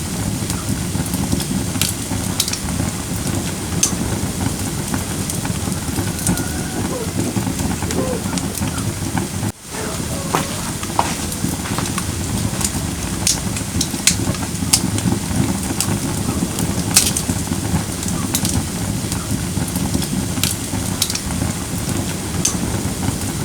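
Firewood burning in a fire pit brazier: a steady low rumble of flame with scattered sharp crackles and pops. The sound briefly cuts out almost ten seconds in.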